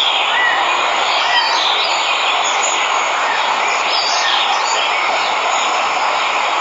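A waterfall rushing steadily, with birds chirping now and then over it.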